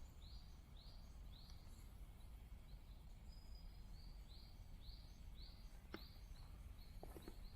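A bird repeating a short, arched call note about twice a second, faint over a low background rumble. A sharp click comes about six seconds in, and a few soft knocks follow near the end.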